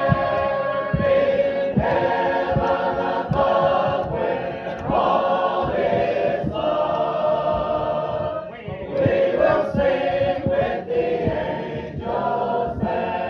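Congregation singing a hymn together, holding long notes with short breaks between phrases.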